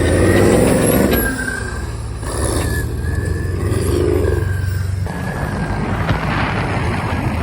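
Truck engine running under throttle, with surges in the first second and again around four seconds in.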